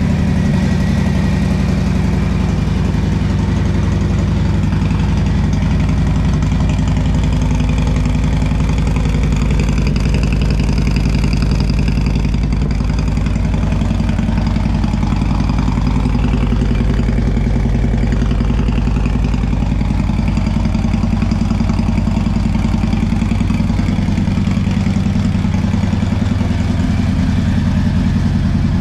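Harley-Davidson Road Glide's Milwaukee-Eight 107 V-twin with a Wood cam, idling steadily through a Bassani Road Rage III 2-into-1 exhaust.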